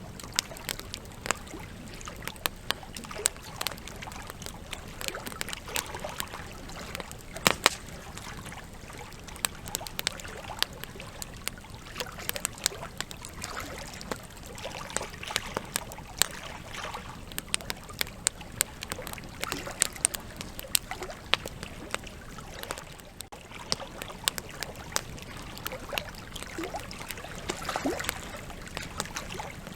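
Wood fire crackling and popping: a steady hiss of burning logs with many irregular sharp snaps, a few louder ones about seven seconds in.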